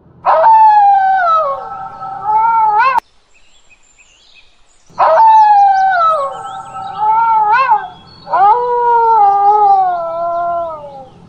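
Wolf howling: three long howls, each falling in pitch at the start and then held, the first two ending with a sharp upward lift.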